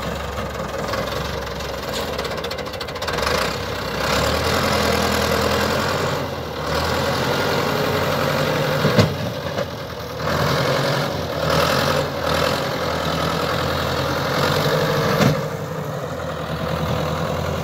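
Tractor diesel engine running, its revs rising and falling several times, with two sharp knocks about six seconds apart.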